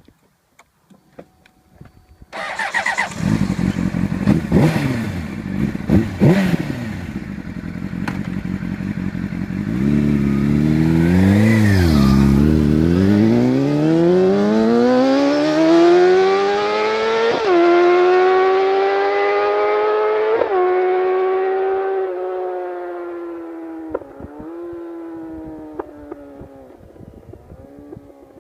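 2004 Honda CBR600RR inline-four sport bike through an Arrow exhaust with the dB killer removed. The engine starts about two seconds in and is blipped sharply twice. It then accelerates hard, with the pitch climbing and dropping suddenly at each of three gear changes, before fading away.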